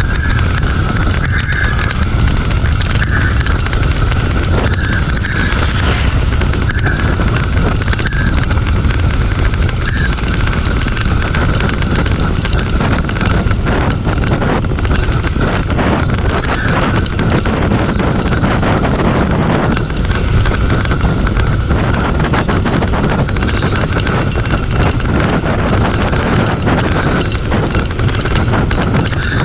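Riding a bicycle over a rough forest track: wind rushing over the microphone, with dense rattling and knocks from the bumps and a faint steady whine.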